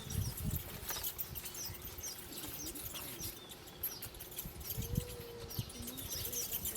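Small wild birds chirping repeatedly: short, high calls, with a few low thumps and rustles underneath.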